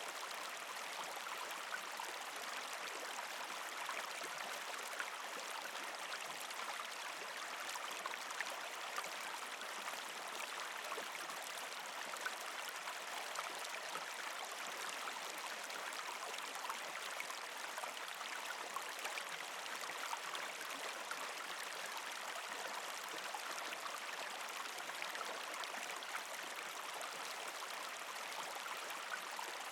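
Partially frozen creek flowing steadily over rocks, water gurgling and trickling with many small splashes.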